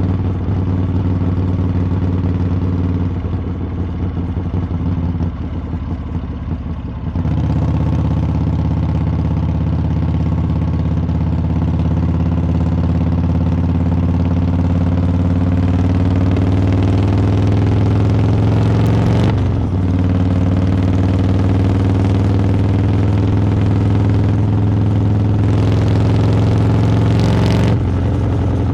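Harley-Davidson V-twin engine and exhaust on the move. It runs softer for the first few seconds, then about seven seconds in the throttle opens and the engine note climbs steadily. The pitch dips briefly about two-thirds through and climbs again.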